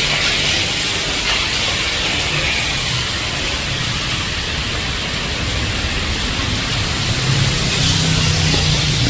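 Heavy tropical rain falling in a steady hiss. A low rumble underneath swells about seven and a half seconds in.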